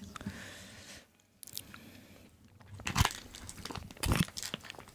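Close-miked eating sounds: biting and chewing, with two loud crunchy bites about three and four seconds in.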